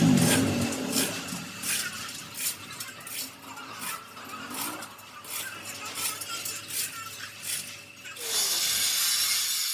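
Irregular metallic clinks and knocks, several a second, over a steady machine hum. About eight seconds in they stop and a steady hiss takes over.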